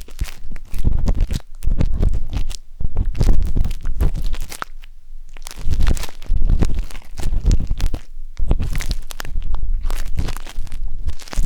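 A wooden skewer scratching and rubbing inside the silicone ear of a 3Dio binaural microphone, in irregular bursts of rough strokes with short pauses between them and a deep rumble under each stroke.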